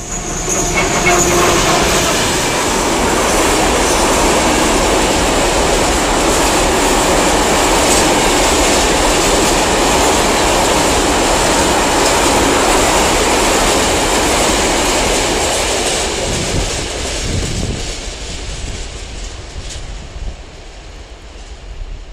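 Freight train of open wagons hauled by a Slovenian Railways class 363 electric locomotive passing close by: a brief whine as the locomotive goes past, then a long steady rumble and clatter of wagon wheels on the rails. The sound fades away over the last several seconds as the train moves off.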